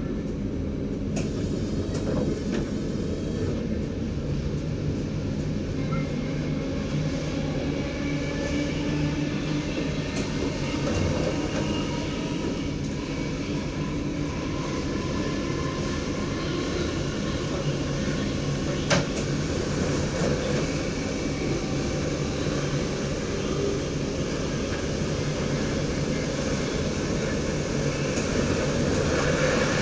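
NS DDZ double-deck electric train running along the line, heard from the driver's cab: a steady rumble of wheels on rail with a constant hum. A single sharp click comes about two-thirds of the way through.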